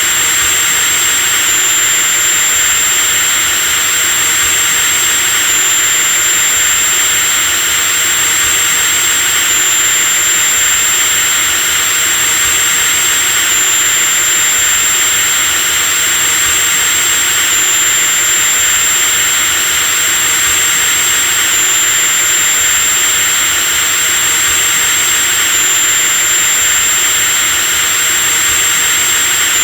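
Electric drill running continuously at a steady speed: a high, even motor whine over a dense hiss, with no change in pitch or loudness.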